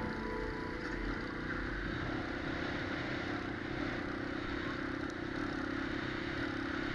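Small moped engine running steadily under way.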